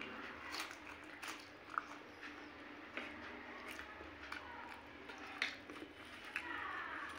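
Close-up chewing and mouth sounds of someone eating soft samosa and matar curry, broken by several sharp clicks from a steel spoon and the mouth.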